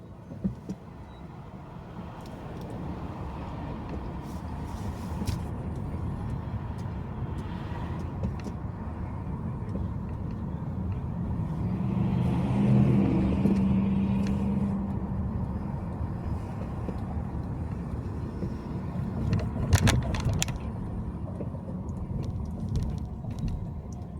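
Car driving, with steady road and engine noise that builds over the first few seconds. A deeper humming note swells about halfway through. A few sharp knocks come near the start and again about twenty seconds in.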